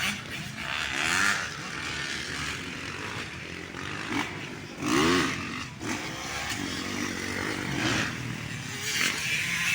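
Motocross dirt bikes racing, engines revving up and down in repeated rising and falling sweeps, loudest about a second in and again about five seconds in.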